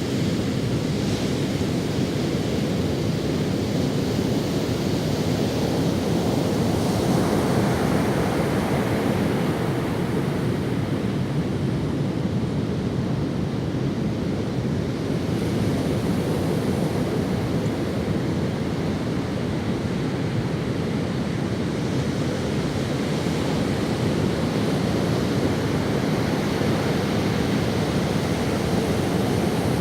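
Ocean waves washing onto a sandy beach, a steady rush of surf that swells a little a few seconds in and again near the end.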